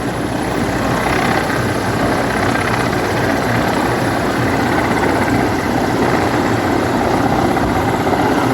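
Helicopter rotor and engine noise, loud and steady.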